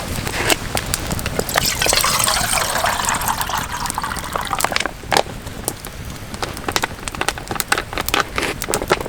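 Liquid poured for about three seconds, starting about a second and a half in, over the steady crackle and pop of a wood campfire.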